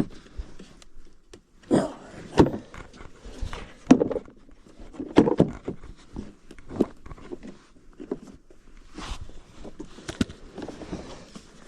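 A series of irregular knocks and clatters mixed with short rustling scrapes, as of hands handling tools and parts.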